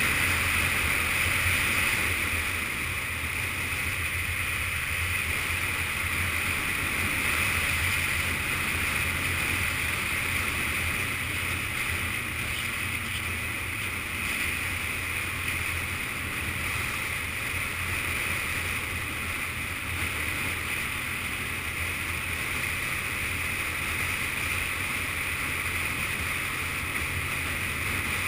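Yamaha FZS600 Fazer's inline-four engine running steadily while riding, under a constant rush of wind noise, muffled as heard through an action-camera housing.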